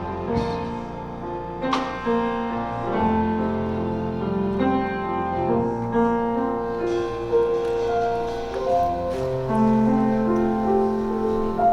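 Piano or keyboard playing slow, held chords that change about once a second.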